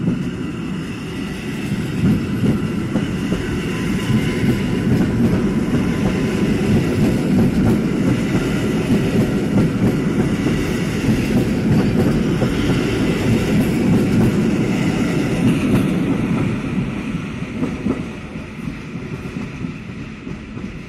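Koleje Mazowieckie EN57AL electric multiple unit running past along the platform: a steady noise of wheels rolling on the rails. It fades away over the last few seconds.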